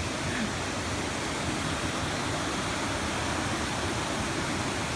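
Steady rush of Stairway Falls, a stepped cascade on the Horsepasture River.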